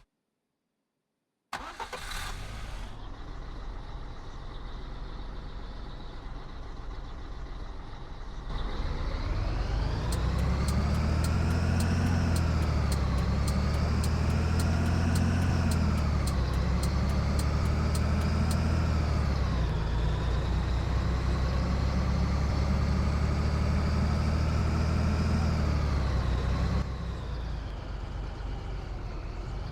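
Scania 113 truck's diesel engine running, then louder about eight seconds in, its pitch climbing and dropping back about four times as engine speed rises and falls. A fast regular ticking sounds for several seconds in the middle. Near the end the engine falls back to a lower, steadier note.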